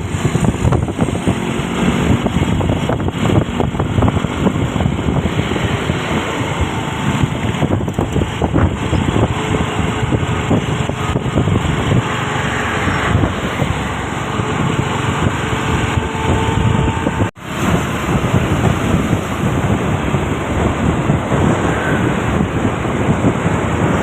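Isuzu Giga truck on the move: steady engine and road noise with wind buffeting the microphone. The sound cuts out for an instant about seventeen seconds in.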